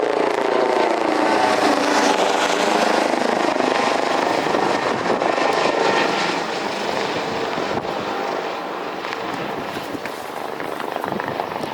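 Jet airliner engines at takeoff power as the plane passes: a loud rush of engine noise with whining tones that fall in pitch, easing off and slowly fading over the second half.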